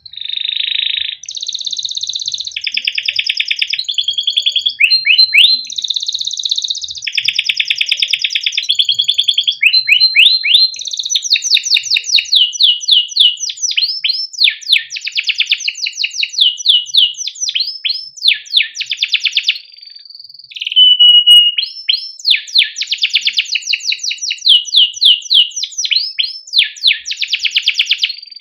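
Male canary singing a long unbroken song: rapid buzzing rolled trills, runs of quick repeated falling chirps, and a short clear whistle about two thirds of the way in.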